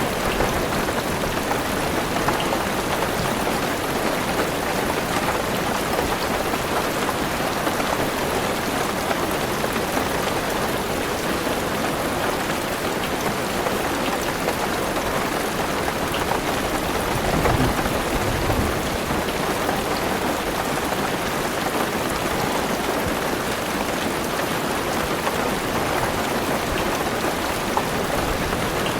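Heavy rain pattering steadily on a car's roof and windows, heard from inside the car. A brief low rumble swells up about two-thirds of the way through.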